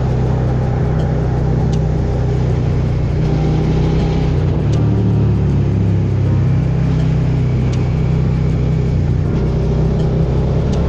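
Suzuki SV650X's 645 cc V-twin engine running steadily under way. Its pitch dips and recovers for a couple of seconds near the middle.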